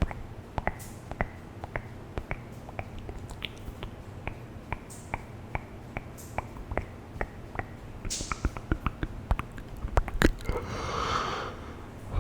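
Close-miked ASMR mouth sounds: irregular wet clicks and smacks of tongue and lips, several a second, with a few short breathy puffs. About ten seconds in they turn into a denser, breathy wet passage.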